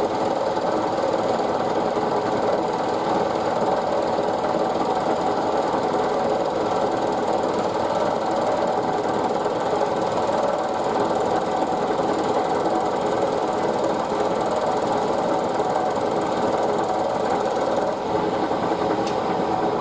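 Milling machine cutter taking a wide, half-millimetre-deep cut along a fixture plate, running steadily with a rapid rattling chatter because the workpiece sticks up high. A single sharp tick near the end.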